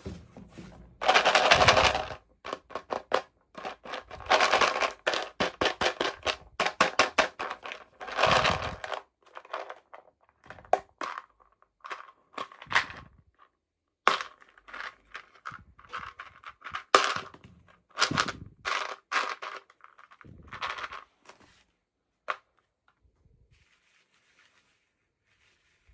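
Plastic toy packaging being handled and opened by hand: irregular bursts of crinkling with rapid clicking and snapping, falling silent a few seconds before the end.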